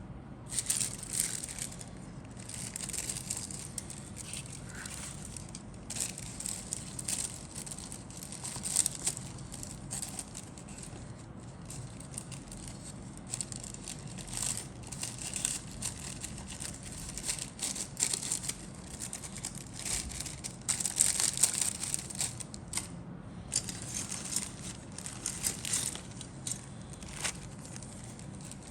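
Plastic packaging from a model kit crinkling and rustling as it is handled, in irregular bursts with brief pauses.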